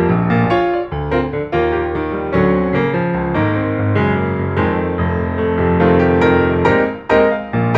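Background music led by a piano or electric piano, playing a gentle melody over sustained chords.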